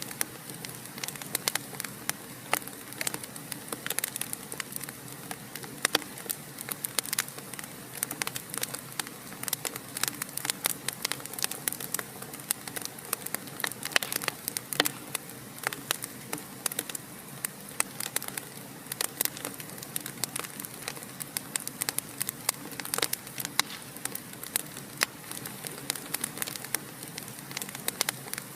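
Wood fire crackling in a fireplace: many sharp irregular snaps and pops over a steady soft hiss.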